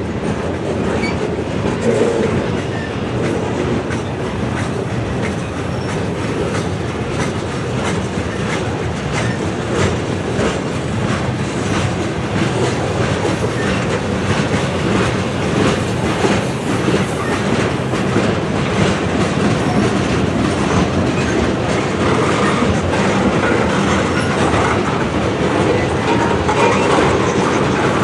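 Freight cars of a manifest train rolling past, a steady rumble of steel wheels on rail with frequent clicks as the wheels cross rail joints.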